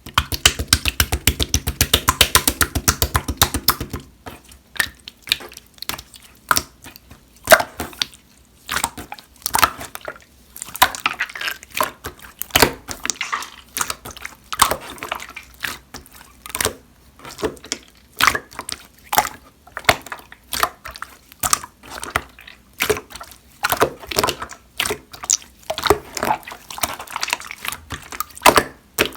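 Clear slime being squeezed, pressed and folded by hand. It gives a rapid run of crackling clicks for about the first four seconds, then irregular wet pops and squelches.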